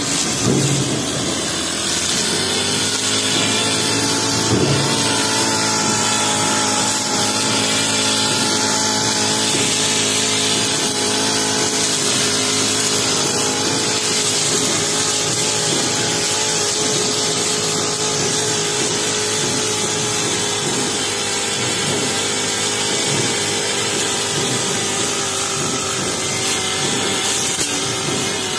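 Honda four-stroke brush cutter with a metal blade running steadily at high revs while cutting grass. There are two sharp knocks early on, at about half a second and about four and a half seconds in, from the blade striking stones.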